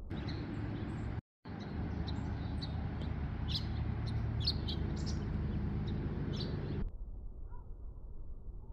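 Small birds chirping: many short, high calls scattered over steady outdoor background noise. The sound drops out for an instant about a second in.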